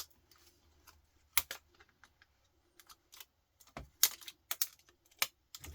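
Irregular sharp clicks and snaps of electronic components being cut and broken off a power-supply circuit board, about a dozen in small clusters.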